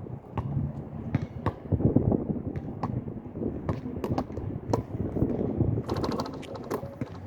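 Gusty wind rumbling on the microphone, with scattered sharp clicks and rattles and a quick run of rattling about six seconds in.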